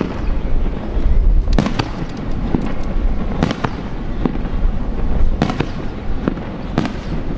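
Aerial firework shells bursting one after another: sharp bangs a second or two apart over a continuous low rumble of booms.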